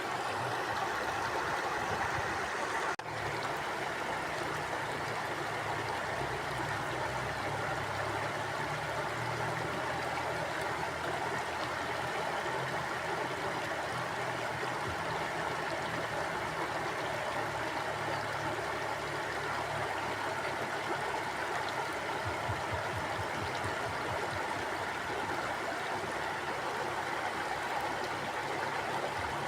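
Mountain stream flowing: a steady, even rush of water, with a brief dip in loudness about three seconds in.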